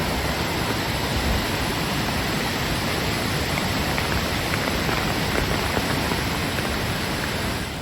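Floodwater spilling over a dam and pouring down a spillway, a steady heavy rush of water.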